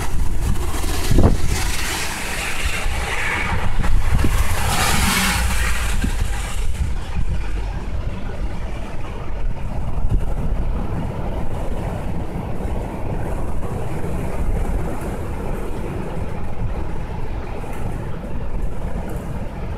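Strong gusty wind buffeting the microphone, a heavy low rumble with a loud rushing gust over the first several seconds that then settles to a steadier blow. A single short knock sounds about a second in.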